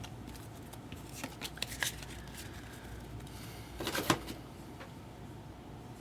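Baseball trading cards being handled and flipped against one another: short papery flicks and clicks, with a louder cluster about four seconds in.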